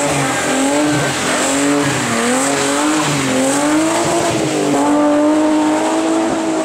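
Historic rally car engine revving hard, its pitch swinging up and down about once a second as the throttle is worked through a stage, then holding a steadier high note for the last couple of seconds.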